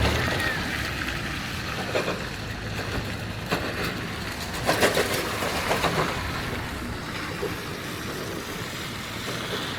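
Outdoor street noise: a steady traffic rumble with a few short sharp knocks, about four of them scattered through the middle.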